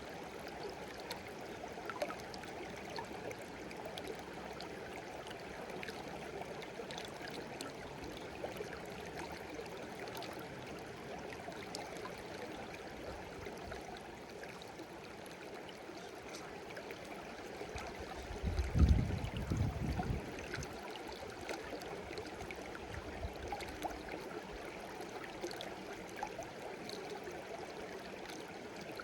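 Shallow stream babbling steadily over stones, with small trickles and splashes throughout. About two-thirds of the way through, a brief low rumble lasting about two seconds stands out as the loudest sound.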